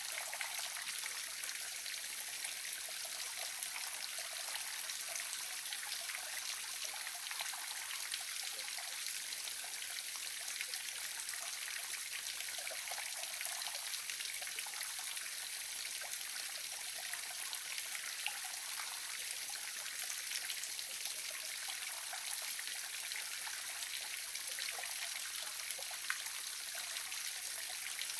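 Small waterfall splashing steadily, a continuous hiss of falling and running water with faint droplet ticks and little low rumble.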